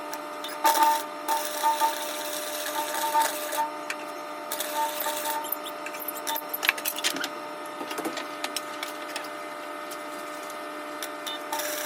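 Electric arc welder joining a chrome exhaust tip to the exhaust pipe, crackling in irregular bursts over a steady hum.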